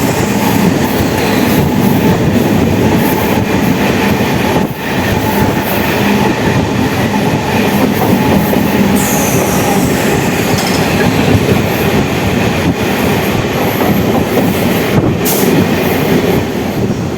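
MEMU electric multiple-unit train running along the line, heard from on board: a loud, steady rush of wheel and rail noise. About nine seconds in, a short high squeal falls in pitch.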